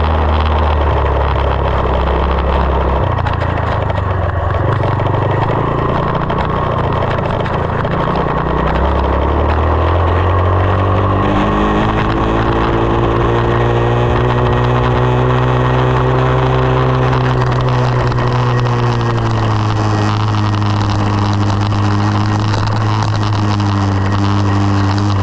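SSR 189 dirt bike's single-cylinder four-stroke engine running under way, its revs low and uneven at first, climbing about ten seconds in and holding, then easing slightly and steadying.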